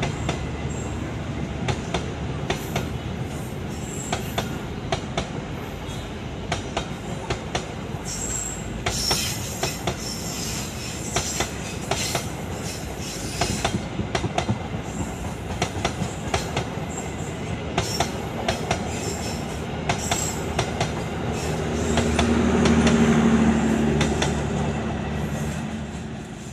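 Passenger train coaches passing close by, the steel wheels clicking over rail joints over a continuous rumble, with wheel squeal partway through. Near the end a louder droning hum swells and fades as the last cars go by.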